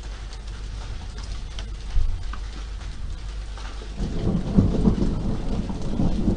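Steady rain with a low background rumble, then a rolling rumble of thunder building from about four seconds in.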